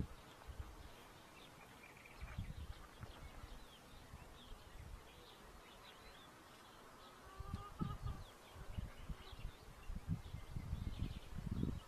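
Faint short chirps of small birds, with irregular low rumbling and thumps that become frequent in the second half.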